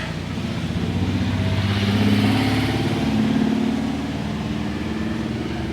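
C4 Corvette's V8 engine running as the car drives slowly past, growing louder about two seconds in and easing off a little after.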